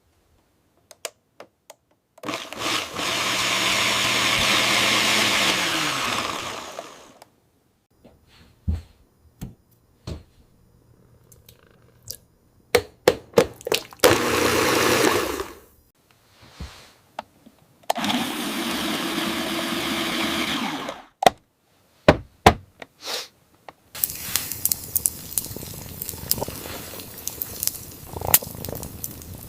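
Electric blender running in three bursts of a few seconds each, the first winding down with a falling pitch, with clicks and knocks between the runs. From about three quarters of the way in comes a steady crackling noise full of small pops.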